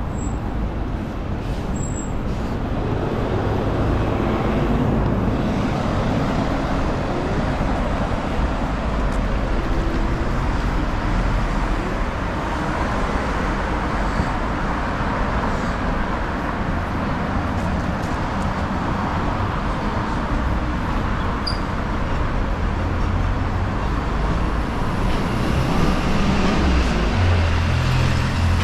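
Steady city road traffic: cars and buses running past on a busy street. Near the end a heavy vehicle's low engine rumble grows louder.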